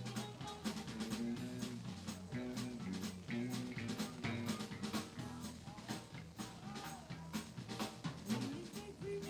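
Live band playing at an open jam: drum kit keeping a steady beat over bass guitar and other instruments.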